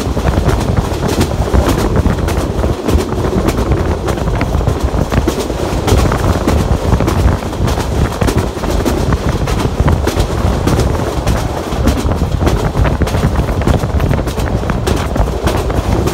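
Bangladesh Railway intercity passenger train running at speed, heard from inside an open carriage window: a steady low rumble of wheels on rail with frequent clicks and clatter from the track.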